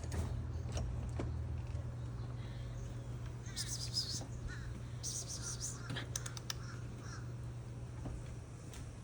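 Birds calling, with two short bursts of harsh, rasping calls about three and a half and five seconds in and a few faint chirps, over a steady low rumble.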